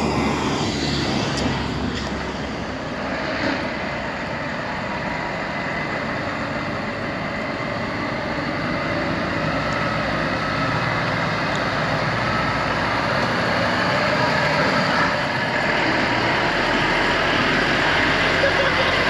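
A heavy truck's diesel engine running steadily, growing gradually louder.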